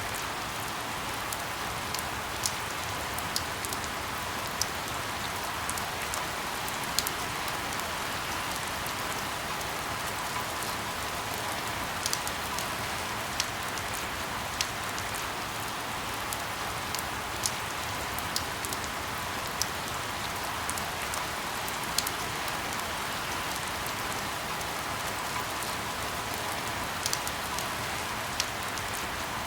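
Steady rain falling, an even hiss with scattered sharp ticks of single drops hitting a hard surface at irregular intervals.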